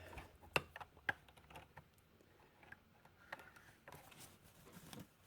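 A few scattered light clicks and taps from handling a small plastic mini sewing machine, its motor not running.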